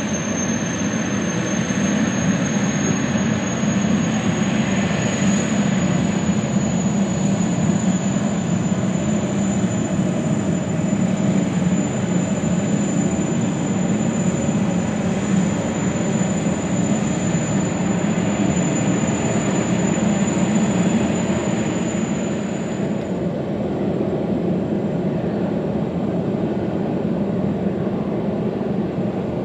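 Jetfoil's gas turbines running at power, a steady rumble under a thin high whine that rises slightly in pitch. The whine stops about 23 seconds in while the rumble continues.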